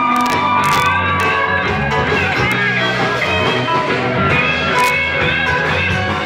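Rock song in an instrumental passage between sung lines: the band plays on with guitar to the fore and no singing.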